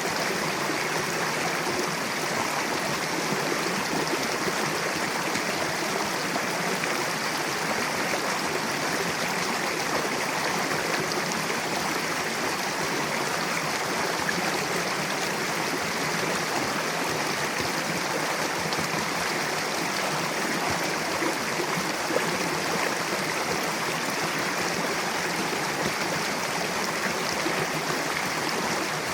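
Mountain river rushing steadily over rocks, a continuous even water noise without pause.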